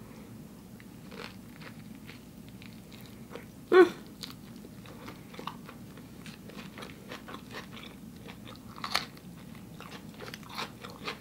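Close-up chewing of a raw vegan sushi roll: soft crunching and many small wet mouth clicks. One brief vocal sound just before four seconds in is the loudest moment.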